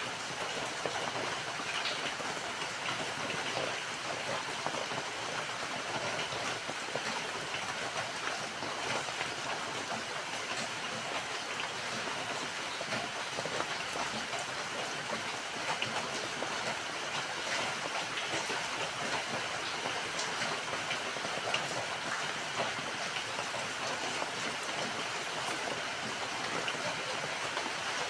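Steady rain falling, a dense even hiss flecked with the patter of many small drop strikes.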